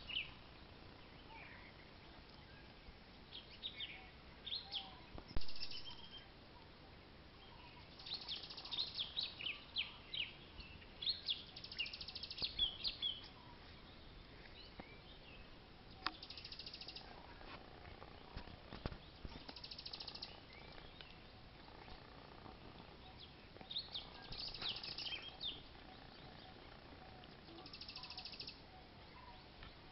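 Wild birds chirping in clusters of short, high calls, with a few short buzzy calls among them. A single sharp knock about five seconds in.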